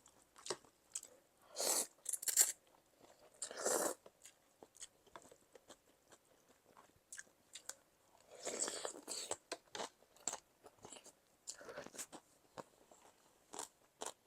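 Close-miked eating of pounded cucumber salad: wet chewing and mouth clicks, with louder bouts of crunching about two seconds in, about four seconds in, and around nine seconds in.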